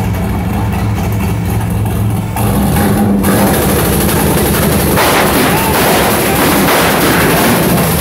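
Turbocharged 5.3-litre LS V8 in a Chevrolet S10 idling, then about two and a half seconds in revved up and held on the two-step launch limiter, with a loud, rapid crackling from the exhaust that grows louder about five seconds in.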